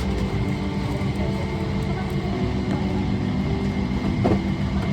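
Steady droning hum inside a Boeing 777-300ER cabin parked at the gate, from the ventilation and the aircraft's running systems, with faint cabin chatter underneath.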